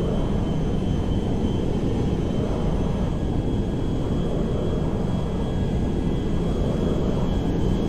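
Airplane noise: a steady, unbroken low rumble with a faint high whine held on top.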